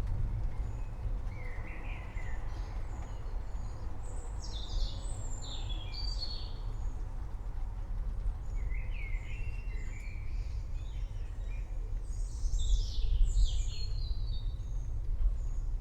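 Birds chirping and calling in short, scattered bursts over a steady low rumble.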